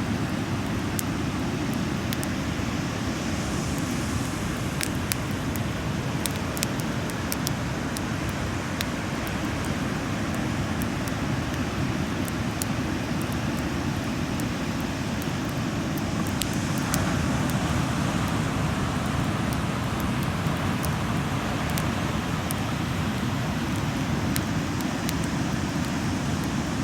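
Wood campfire crackling, with scattered sharp pops throughout, over a steady low rumble.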